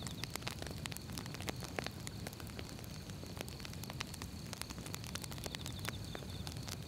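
Firewood burning, crackling with frequent irregular sharp pops over a steady low rumble of the flames.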